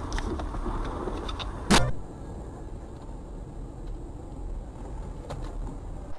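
Car cabin and road noise from a dashcam, broken just under two seconds in by one loud, sharp bang, after which the driving noise carries on quieter with a few faint clicks.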